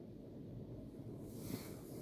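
Istobal M'Wash 3 Pro car wash machinery running as a low rumble, with a hiss, likely of water spray, building about a second in.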